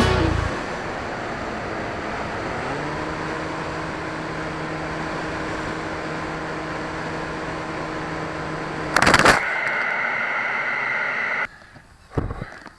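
Onboard sound of a Zagi flying wing in flight: steady wind rush with the electric motor and propeller humming. About nine seconds in comes a loud short burst, then a steadier higher tone, and near the end the sound cuts off abruptly to near quiet with a few faint knocks.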